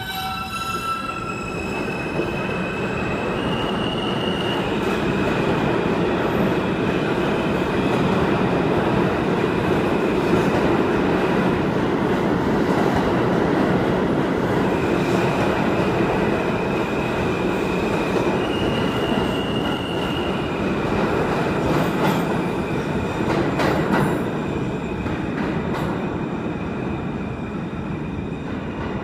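R160A New York subway train pulling out and running at speed: a steady rumble of wheels on rail that builds over the first few seconds, with high whining tones from the propulsion that step up and down in pitch several times.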